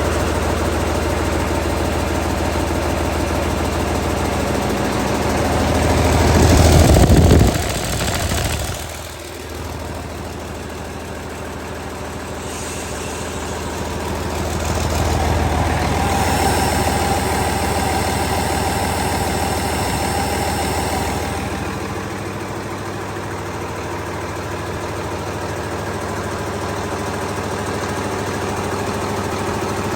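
2012 Cummins ISL9 inline-six diesel engine running at idle. It is revved up about six seconds in and drops back sharply near eight seconds. It is raised again for several seconds in the middle, then settles back to idle.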